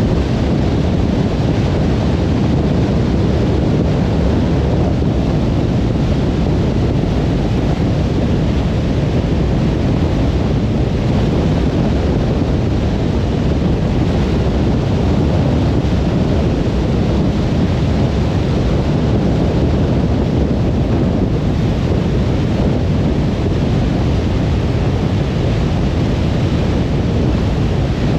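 Steady low road noise of a car driving on a highway: tyre and wind noise, an even rumble that does not change.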